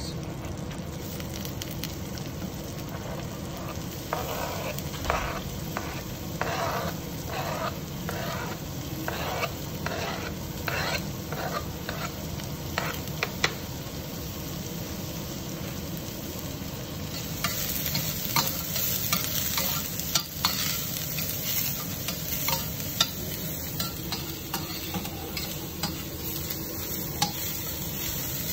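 Chopped cauliflower, onion and garlic sizzling in oil and butter in a stainless steel frying pan, stirred with a metal spoon that scrapes and clicks against the pan. About four seconds in comes a run of regular stirring strokes lasting about ten seconds, and about two-thirds of the way through the sizzle turns louder and brighter.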